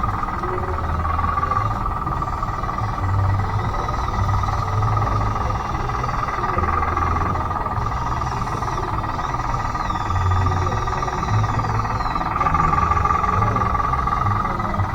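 Small electric drive motors and gearing of a radio-controlled Bruder D5 bulldozer running: a steady whine, with a lower hum that comes and goes every second or so as it moves.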